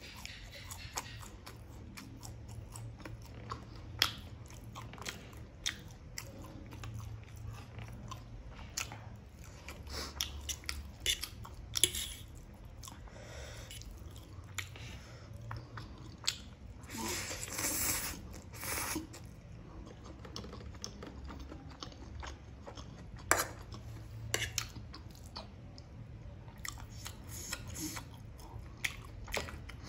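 Close-miked eating sounds: a person chewing and biting into food, mostly forkfuls of masala Maggi noodles, with crunchy bites and scattered sharp clicks. A louder, longer noisy stretch comes a little past halfway.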